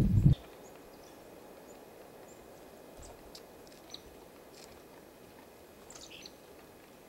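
Faint, short bird chirps, a few scattered calls, over a quiet outdoor background. A loud low rumble stops abruptly just after the start.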